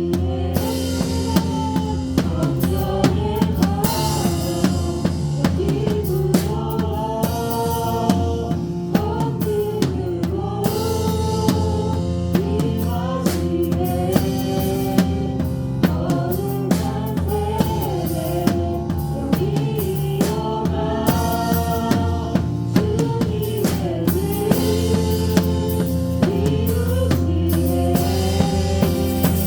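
Drum kit played live in a worship band, with a steady pattern of kick drum, snare and cymbal hits. The rest of the band plays along, with held bass notes under a melody that rises and falls.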